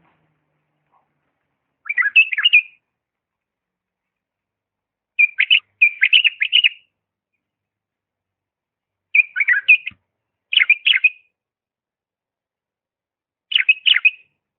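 Bulbul singing a song in the Iraqi Diyala style: six short, quick warbled phrases with pauses of a second or more between them.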